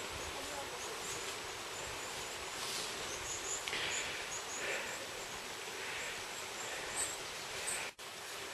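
Forest ambience: a steady, even hiss with a run of short, high bird chirps in the first half. The sound cuts out for an instant near the end.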